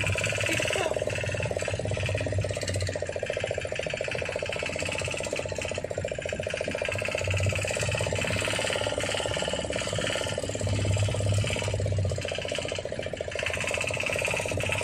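A boat's engine running steadily, a fast, even mechanical clatter.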